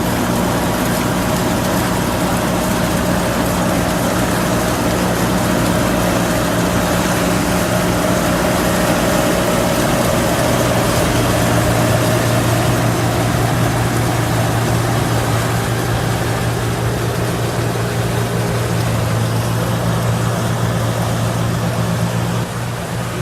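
John Deere 4435 combine harvester running steadily, a loud, even engine drone with a low hum and machinery noise over it. The hum shifts slightly lower about halfway through.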